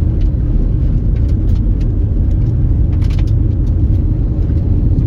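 Car driving on a dusty unpaved road: a steady low rumble of tyres and engine, with scattered short clicks and rattles.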